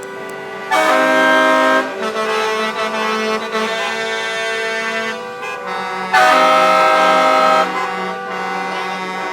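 Two blasts of a truck air horn, each a chord held for just over a second, the second starting about five seconds after the first. Music with sustained notes plays underneath throughout.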